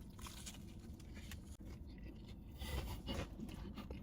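Faint rustling and scraping as a fried chicken sandwich and its wrapping are handled, with a few slightly louder rustles about three seconds in.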